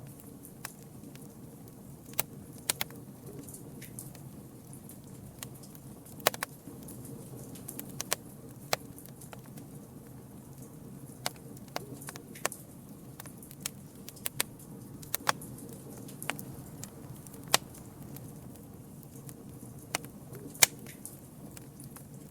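Campfire burning with a steady low rush of flame and sharp, irregular crackles and pops from the burning wood.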